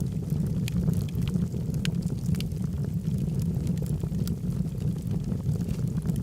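Log fire in a fireplace burning, with a steady low rumble and frequent sharp crackles and pops from the wood.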